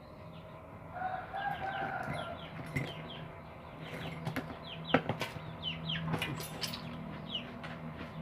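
Many short, falling bird chirps over a steady low hum, with a few sharp clicks.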